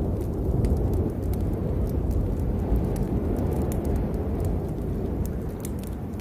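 Rainstorm ambience: a steady low rumble under a dense wash of rain, with scattered sharp ticks of drops.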